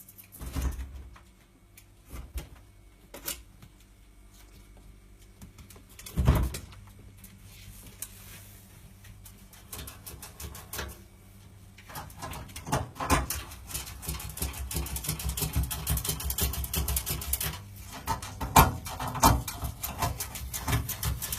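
Knocking and rattling from a skunk rummaging inside a fridge: scattered knocks at first with a sharp one about six seconds in, then a near-continuous fast clatter from about halfway, with another loud knock near the end.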